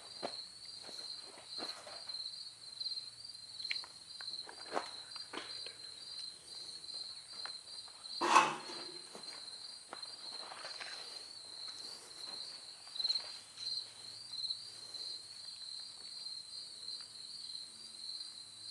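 Insects chirping in a steady, high, pulsing trill, with scattered light knocks and steps and one louder thump about eight seconds in.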